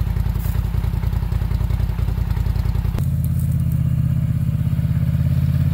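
Polaris Sportsman 850 ATV's twin-cylinder engine running steadily as it is ridden under a heavy load of lumber. The engine note changes abruptly about three seconds in.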